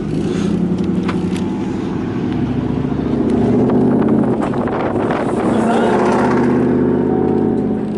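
Pickup truck engine running and being revved, its pitch climbing about three seconds in and again near six seconds.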